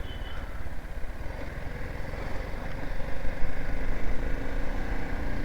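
BMW G 310 GS motorcycle's single-cylinder engine running while being ridden, heard as a steady low rumble mixed with road noise.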